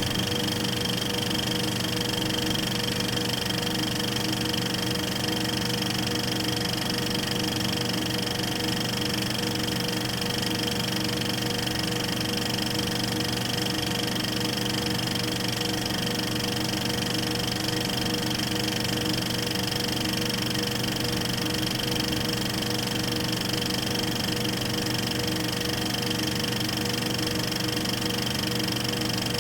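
Film projector running steadily: a continuous mechanical whir of the film transport over a steady motor hum, with no change in speed or level.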